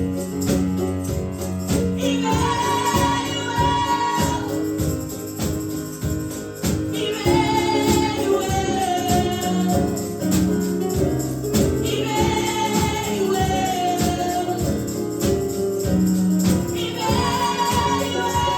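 Gospel praise-and-worship music: singers carrying phrases with long held notes, returning every few seconds, over a band with a steady beat and a tambourine.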